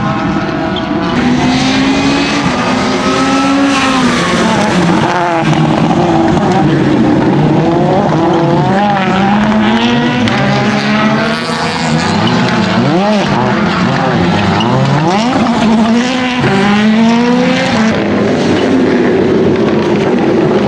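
Citroen C3 WRC Plus rally car's turbocharged four-cylinder engine driven hard, its pitch climbing and dropping again and again through gear changes and lifts.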